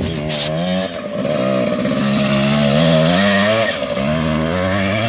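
Yamaha 80 dirt bike engine revving as it rides through mud. The pitch climbs and drops again about five times, as the throttle is opened and eased off.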